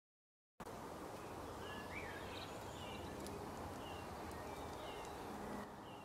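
Outdoor ambience: a steady low rumble with a few faint, short bird chirps and one rising call about two seconds in. It starts abruptly about half a second in.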